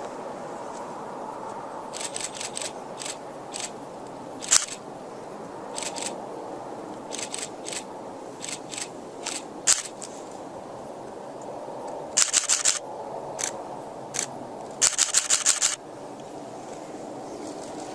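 Camera shutters clicking, singly and in rapid continuous-shooting bursts of about eight frames a second, over a steady background rumble; the longest bursts come about two-thirds of the way through and near the end.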